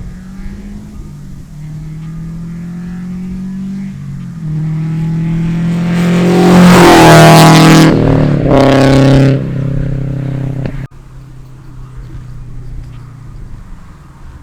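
Subaru BRZ's flat-four engine through a catless Invidia N1 catback, catless Invidia front pipe and Tomei unequal-length headers, accelerating past: the exhaust note builds and is loudest about six to eight seconds in with its pitch falling, surges once more briefly, then drops abruptly to a steadier, quieter note.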